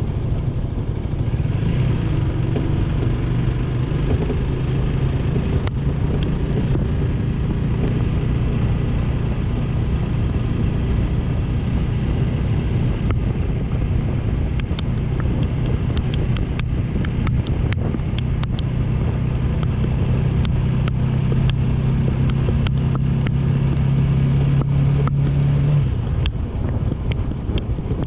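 AKT GP 180 motorcycle engine running at a steady pitch while riding, with wind rushing over the microphone. The engine note drops away about two seconds before the end.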